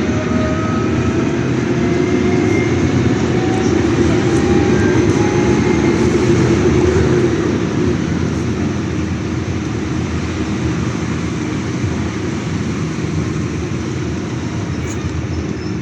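City bus heard from inside the cabin: steady engine and road rumble, with a whine that rises in pitch as the bus gathers speed, easing off about seven seconds in.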